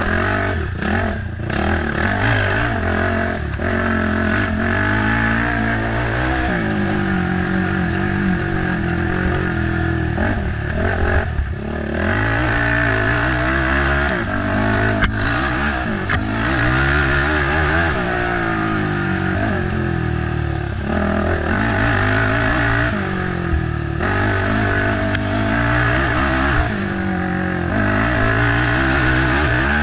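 Race ATV engine running hard, its revs rising and falling over and over with throttle and gear changes. A few knocks sound from the machine over rough ground.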